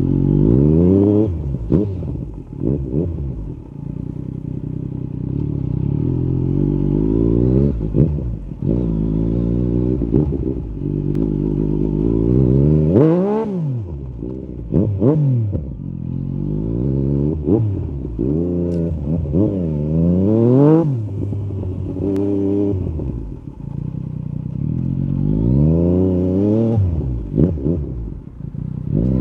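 Yamaha MT-09 SP's three-cylinder engine through an Akrapovic carbon Racing-Line exhaust with the dB killer out, revving up and falling back again and again as the rider accelerates, shifts and closes the throttle. A few short sharp cracks stand out.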